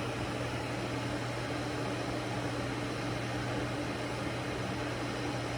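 Tumidy 1.7-litre glass electric kettle heating water, a steady rushing hiss over a low hum, the water nearly up to temperature.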